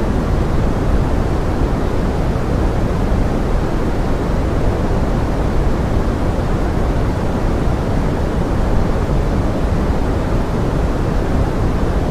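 Steady pink noise mixed with forest rain: a deep, even hiss that does not change.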